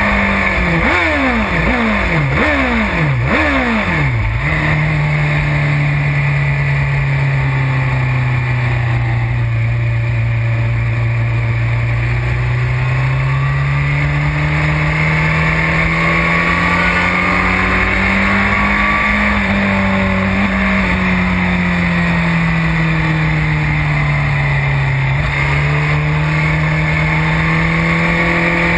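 BMW S1000RR superstock motorcycle's inline-four engine heard onboard on track. In the first few seconds the pitch falls and jumps back up several times, like a quick run of downshifts under braking. After that the engine pitch rises and falls slowly through long corners, under steady wind rush on the microphone.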